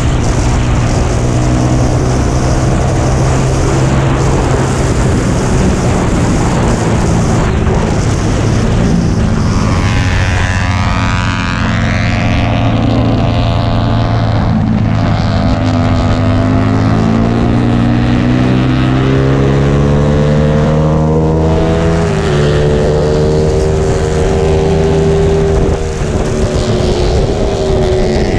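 Motorcycle engine pulling hard around a racetrack, heard from on the bike with heavy wind rush on the microphone. The engine note climbs steadily from about ten seconds in, drops abruptly near twenty-two seconds, then climbs again.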